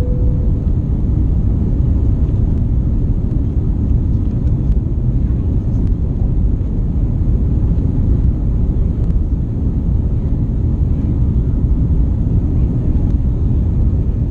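Steady low cabin noise inside an Airbus A350-900 airliner, its engines and airflow heard from a window seat, with no rise or fall in level. A single short tone fades out right at the start.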